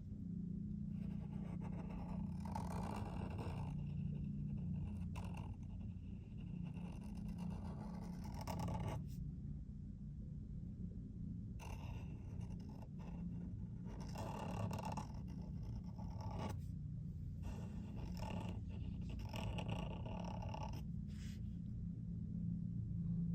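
A pen drawing on paper: irregular scratchy strokes of about half a second to a second, with short pauses between them, over a steady low hum.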